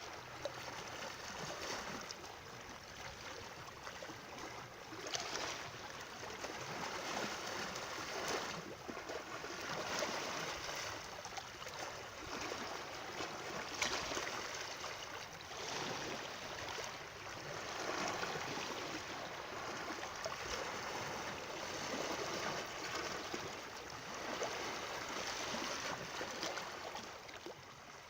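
Flowing water: a continuous rushing and splashing that swells and eases every few seconds, with a few brief sharper splashes.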